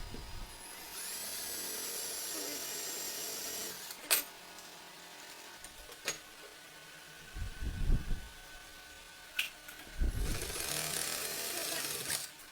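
A small power tool's motor runs twice in short, high-pitched bursts of about three seconds each, spinning up at the start of each. Between the runs come a few sharp clicks and knocks.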